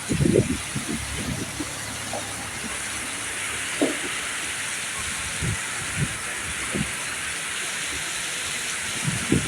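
Heavy rain falling as a steady hiss, with scattered short low knocks, most of them near the start and near the end.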